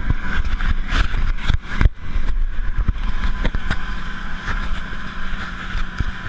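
A boat under way: its engine runs steadily under a rush of wind and water, with frequent short knocks and thumps.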